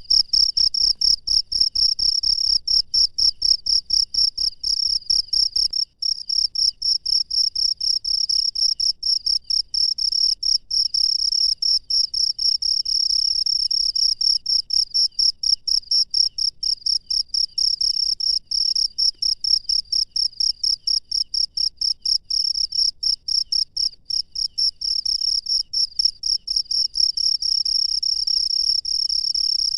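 Cricket chirping: a high-pitched, rapid, evenly pulsed trill that goes on without a break.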